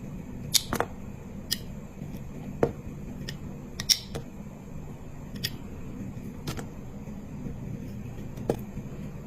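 Slime being handled, giving irregular sharp clicks and small pops over a steady low hum.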